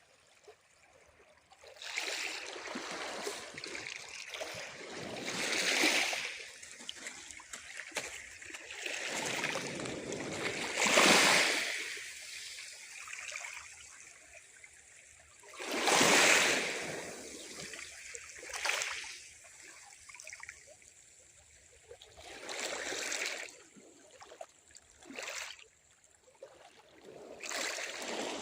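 Small sea waves breaking and washing up on the shore, a swell of surf every few seconds, with two louder breakers near the middle.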